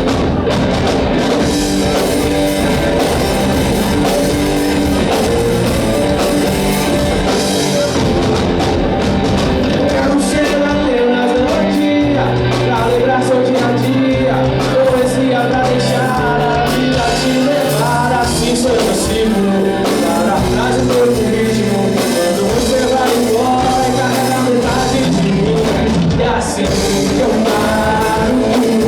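Rock band playing live: a full rock sound of drums, guitar and bass, with singing.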